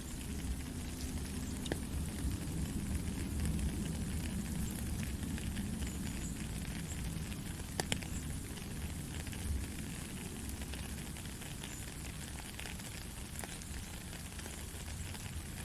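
Steady rain: an even hiss of falling drops with a fine crackle of close drips and a low rumble underneath, plus a couple of sharper drip ticks.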